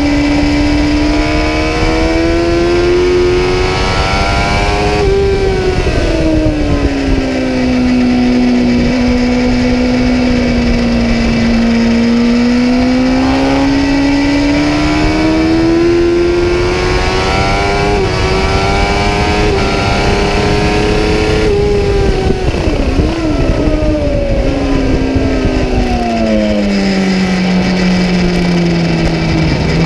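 Kawasaki ZX-10R's inline-four engine heard from on board at high revs, its pitch climbing and falling over several seconds at a time. About three-quarters through the pitch wavers quickly, then falls to a lower, steadier note near the end.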